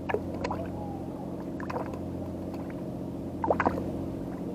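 A boat engine idling with a steady low hum, with a few short sharp knocks or clicks over it, the loudest pair about three and a half seconds in.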